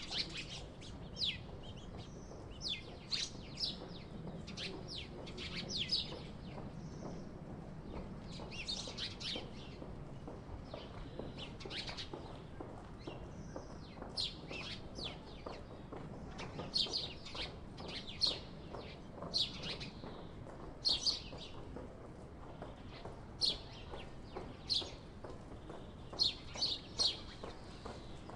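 Sparrows chirping: many short, high chirps, some single and some in quick runs of several, going on throughout.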